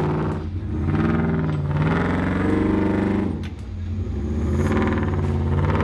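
Jeep engine running under throttle on an off-road trail, its revs rising and falling several times and easing off briefly twice.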